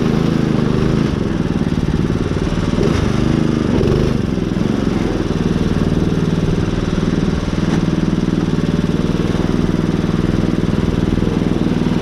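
Riding lawn mower engine running, its pitch rising and falling over the first few seconds, then holding steady.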